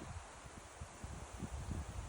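Wind buffeting the microphone in uneven low gusts over a steady faint hiss, strongest near the end.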